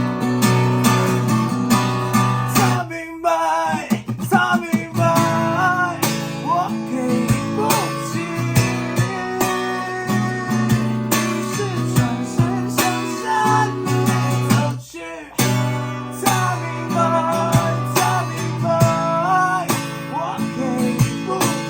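A solo voice singing over strummed acoustic guitar. The guitar drops out briefly about three seconds in and again around fifteen seconds.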